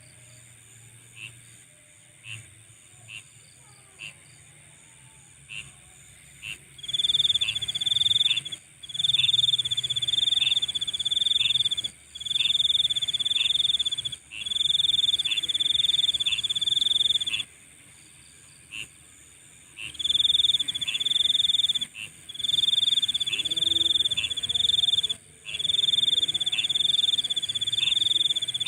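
Night insects calling: a steady high-pitched trill, with single short chirps at first. From about seven seconds in, a loud buzzing call comes in bouts of a second or two with short breaks, pausing for a couple of seconds before resuming.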